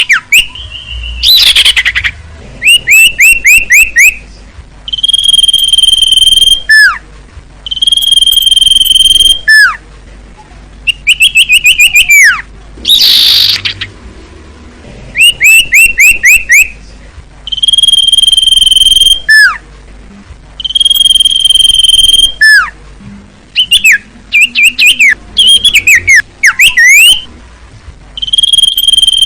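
Common iora (cipoh) singing a repeated song: long steady whistles that end in a sharp downward slide, alternating with quick runs of short down-slurred notes, with a harsh rasping note about a second in and again near the middle.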